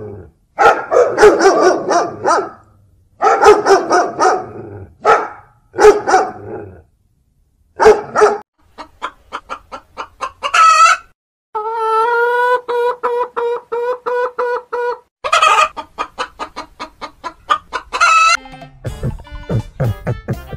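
A dog barking and howling in loud drawn-out calls for the first several seconds, then chickens clucking in quick repeated notes and a rooster crowing in one long steady call about halfway through, with more clucking after it.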